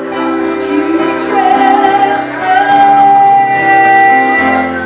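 Worship music with a woman singing, holding one long note through the middle, over sustained instrumental chords.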